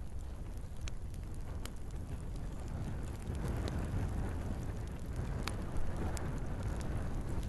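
Log fire in a fireplace crackling: scattered sharp pops and snaps over a steady low rush of the flames, with one louder pop about six seconds in.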